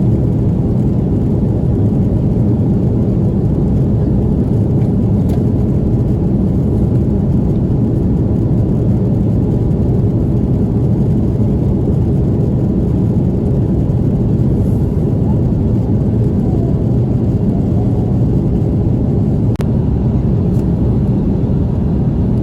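Steady low rumble of jet engines and rushing air heard inside the cabin of an Airbus A330-300 airliner, unchanging in pitch and loudness.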